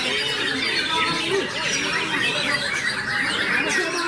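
White-rumped shama singing amid many other songbirds: dense, overlapping whistles, chirps and quick pitch glides that never let up.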